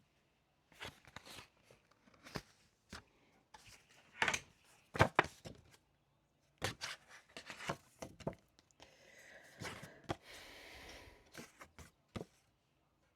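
Paper note cards being handled on a desk: a string of irregular taps, clicks and rustles, with one sharp knock about five seconds in and a longer rustle of cards sliding from about nine seconds in.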